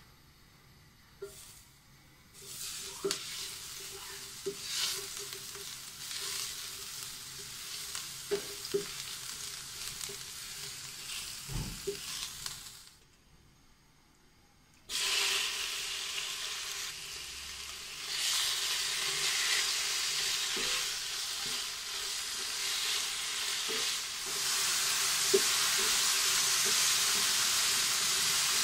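Garlic paste sizzling in hot oil in a non-stick frying pan, with clicks and scrapes as a utensil stirs it. After a short break about halfway, bite-sized chicken cubes go into the pan and fry with a louder, fuller sizzle while being stirred.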